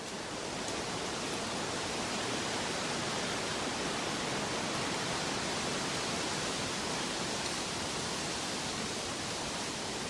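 Steady, even rushing noise from a relaxation soundscape, swelling in at the very start and then holding level.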